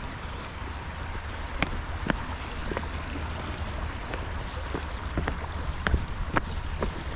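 A creek running steadily, with about a dozen short sharp clicks and splashes scattered through it as someone steps across the stones.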